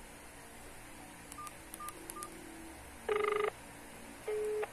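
Keypad mobile phone beeping faintly three times, then a busy tone from its speaker about three seconds in: two short beeps, the first louder and buzzier. The call is not going through, which the callers take for the person rejecting the call.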